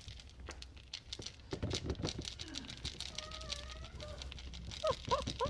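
Cat litter being scooped, a run of gritty clicks and scrapes, while a cat gives a soft drawn-out meow and then a few short chirping calls near the end, begging to be fed.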